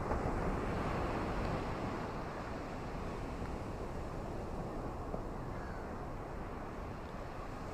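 Ocean surf washing in a steady low rush, swelling a little in the first second or so, with wind noise mixed in.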